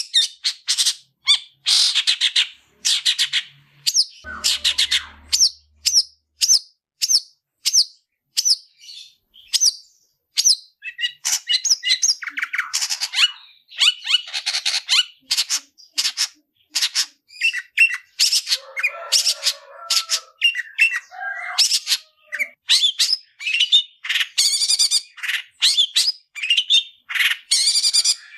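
Long-tailed shrike (cendet) in full, aggressive song: rapid runs of short, sharp, high chattering notes, with a harsher, lower scratchy stretch about two-thirds of the way through.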